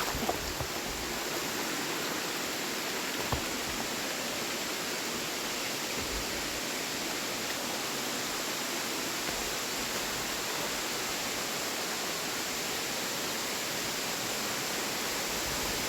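Steady rush of a waterfall cascade: water pouring into a pool, with an even hiss and no change.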